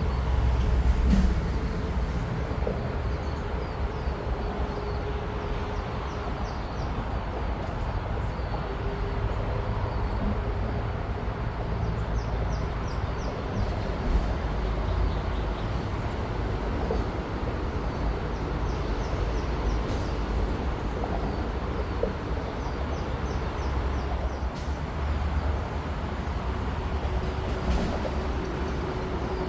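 Steady low outdoor rumble with a faint wavering hum, and small high chirps scattered through it.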